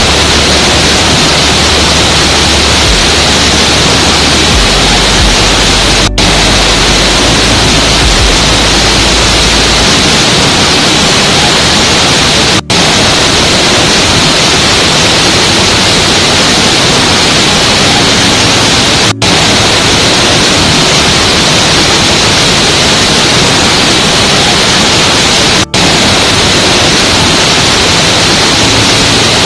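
Steady, loud rushing noise of a waterfall, broken by a brief dropout about every six and a half seconds, as where a recording loops. A low hum underneath stops about ten seconds in.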